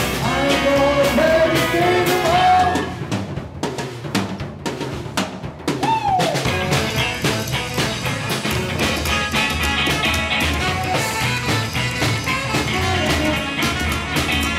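A live band playing, recorded close up with a drum kit prominent. About three seconds in the band drops to a thinner, drum-led passage, and about six seconds in it comes back in full with a falling glide in pitch.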